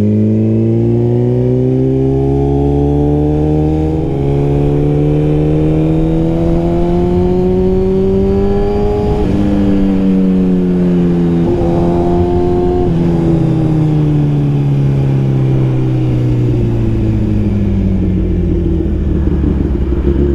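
Suzuki GSX-R1000R inline-four running through a Brocks full exhaust under way: the engine note climbs steadily for about nine seconds, then drops and falls away as the bike slows, with wind rush underneath.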